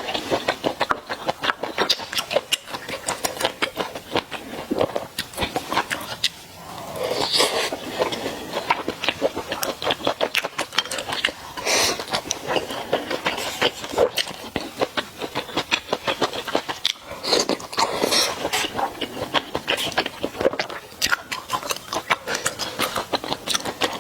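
Close-miked eating sounds of mala xiang guo and malatang: chewing with many small wet mouth clicks, and a louder stretch of a second or two every few seconds.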